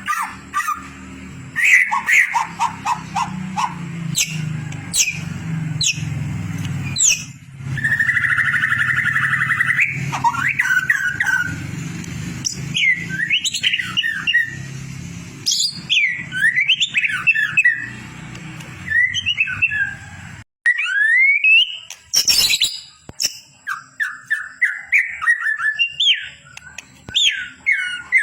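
White-rumped shama song: fast, varied phrases of clear whistles, sweeping notes, trills and sharp clicks, over a low hum that stops suddenly about two-thirds of the way through.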